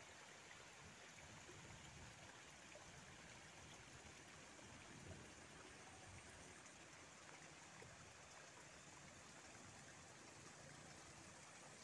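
Near silence: a faint, even hiss of outdoor background noise, with no distinct calls or knocks.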